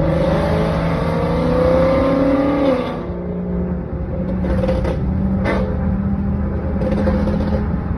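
Ford Mustang GT's 5.0 V8 with long-tube headers and a Ford Performance Borla catback exhaust, pulling under acceleration with its pitch rising for nearly three seconds, then letting off and running at a steady lower pitch.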